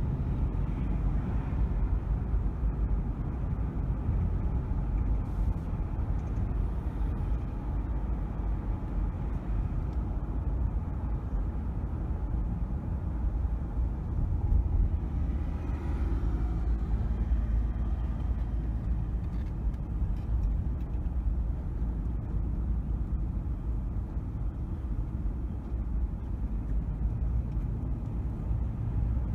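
Car driving through city streets: a steady low rumble of road and engine noise, with a faint brief whine passing about halfway through.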